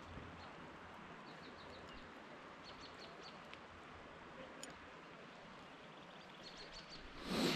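A small bird chirping several times in quick runs of three or four short high notes, over a faint steady outdoor hiss. A short, loud rush of noise comes just before the end.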